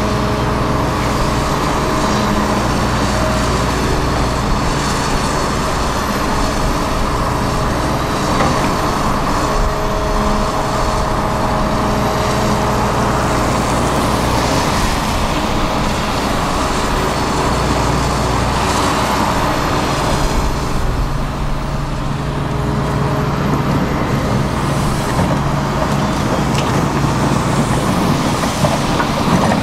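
Diesel engines of heavy construction machinery, a tracked excavator and a dump truck, running steadily under work.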